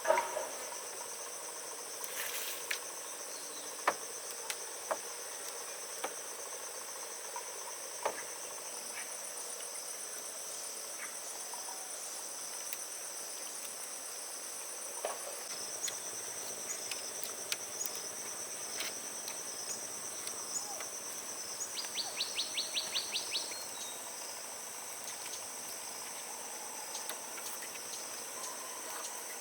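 Steady high-pitched chorus of crickets and other insects, with a few scattered clicks and a short, rapid pulsing series of chirps about three-quarters of the way through.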